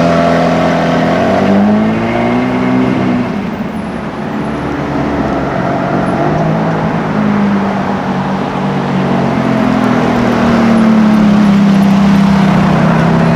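High-performance car engine running loud and revving, its pitch rising and falling as it accelerates. The engine note eases off a few seconds in, then another strong engine note swells again through the second half.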